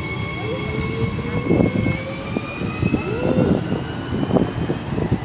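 A train running on the track, with a low rumble and a steady high motor whine that starts to rise in pitch about two seconds in as the train gathers speed.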